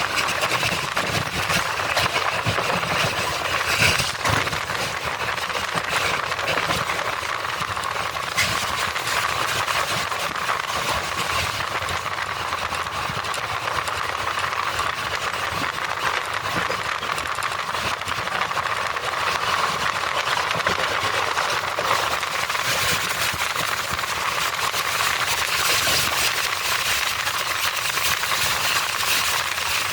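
Train of LHB passenger coaches running on the track: a steady rumble and rattle of wheels on rails, with a louder knock about four seconds in.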